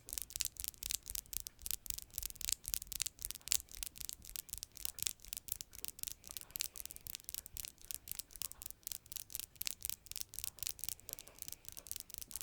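Freshly manicured fingernails scratching and tapping in quick crisp strokes, about four a second, over a low steady furnace hum.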